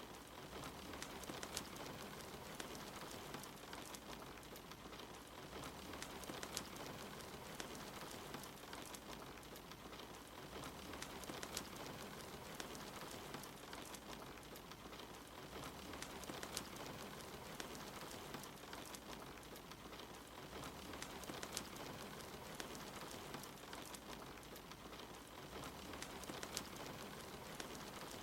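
Steady rain mixed with a wood fire crackling, with many small sharp pops scattered throughout.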